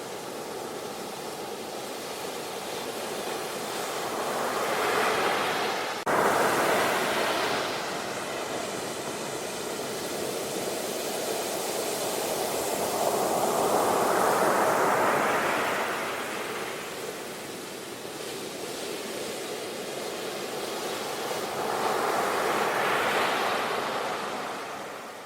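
Ocean surf: waves breaking and washing up a beach, the rushing noise swelling and fading in slow surges about every eight or nine seconds. One surge comes in abruptly about six seconds in.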